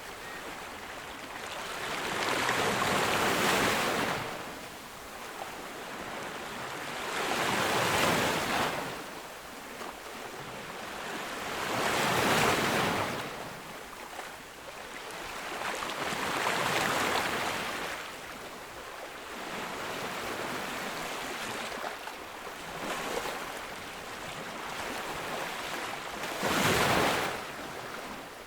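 Ocean waves breaking on a beach, each surge of surf swelling and falling away about every four to five seconds, with a short, sharp break near the end.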